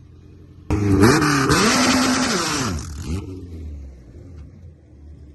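Race car engine revving hard: it comes in suddenly under a second in, its pitch rising, holding and falling as it pulls through the revs with a loud rushing noise, then drops off sharply after about three seconds to a lower, quieter running sound.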